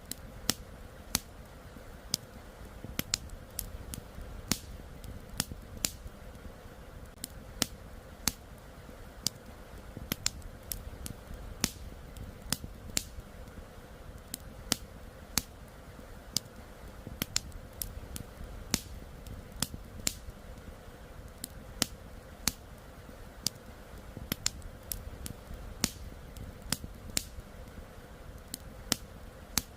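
Wood campfire crackling, with sharp pops coming irregularly several times a second over a steady low rushing of river water.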